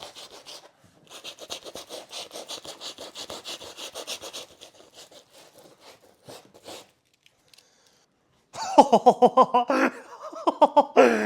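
Rapid back-and-forth rubbing of sandpaper on an oil-painted canvas, scrubbing through still-wet paint, many short strokes a second, then fading out. Near the end a man laughs loudly.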